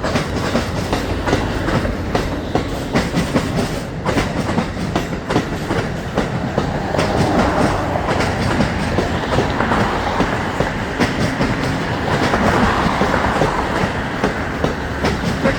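Container and empty freight cars rolling slowly past. Their steel wheels clack steadily and irregularly over rail joints, a clatter that is typical of a diamond crossing.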